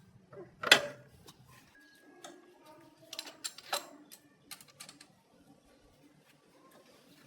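Clatter of tools and metal parts being handled: one loud knock about a second in, a cluster of knocks around three to four seconds in, and a few lighter clicks after.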